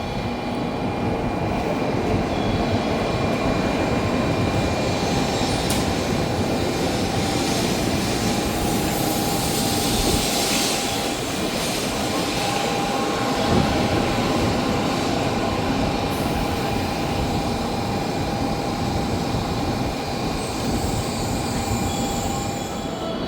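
Shinkansen Nozomi bullet train running in along the platform: a steady rumble of wheels and running gear with a constant high whine, swelling a little about halfway through.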